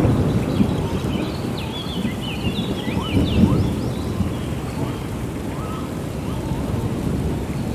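Steady rain with a low rolling thunder rumble that is loudest at the start and slowly dies away. Over it, birds give many short, high chirps and whistles, thickest in the first half.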